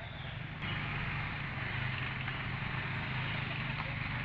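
A steady low engine hum under a constant hiss, growing a little louder under a second in.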